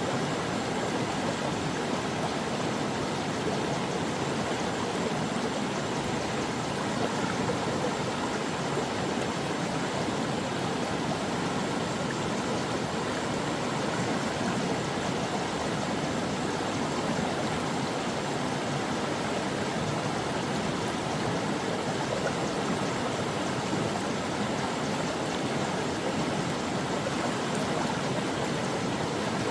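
Steady rushing and babbling of a mountain stream flowing over rocks.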